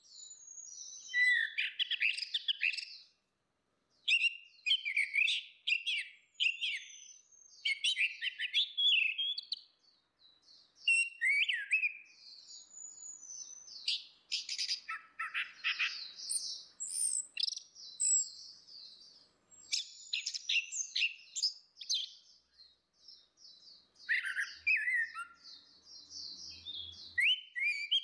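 Orange-headed thrushes singing: varied whistled and chattering phrases in bouts of a second or two, with short pauses between.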